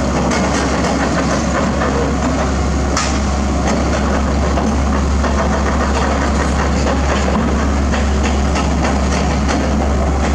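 Heavy diesel engine running steadily with a deep, even hum, with scattered light clicks and a sharper knock about three seconds in.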